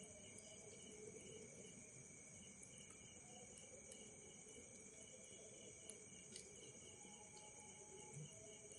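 Faint, steady chirping of crickets, with a few soft crackles from burning logs.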